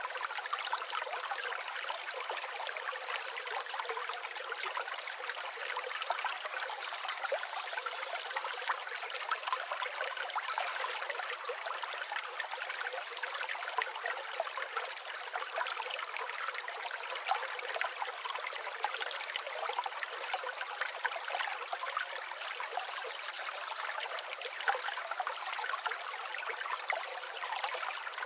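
Shallow river or stream flowing steadily over stones, a continuous rush of water with fine trickling and splashing and no low rumble.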